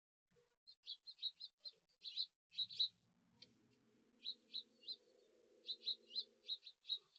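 Small birds chirping: many short, high chirps in quick runs. A faint low hum sits under them through the middle.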